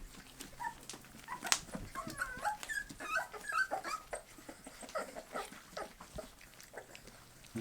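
Bull terrier puppies eating: a run of wet chewing and lip-smacking clicks, with high squeaky whimpers in the middle.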